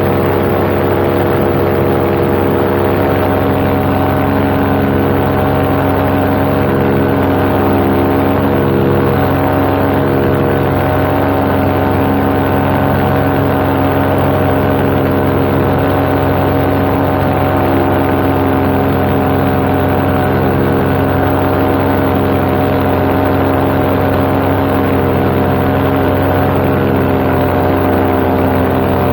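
Paramotor engine and propeller running at a steady cruise power in flight, a constant drone that holds its pitch throughout.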